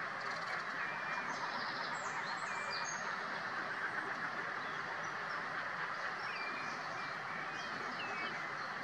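Short bird calls, each a quick hooked chirp, heard a few times and more often near the end, over a steady background noise.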